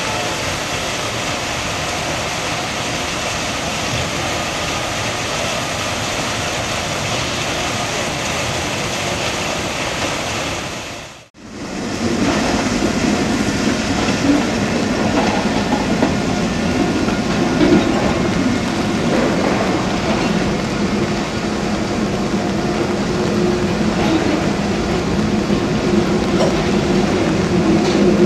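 Steady mechanical rumble, broken by a sharp dropout about a third of the way in. It then comes back louder as freight boxcars roll slowly past, their wheels clattering on the rails over a steady drone, with occasional clanks.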